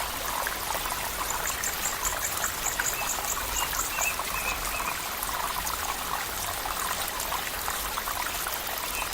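Stream water trickling and bubbling steadily. For a few seconds about a second in, a high, rapidly pulsed animal trill sounds over the water, about five pulses a second.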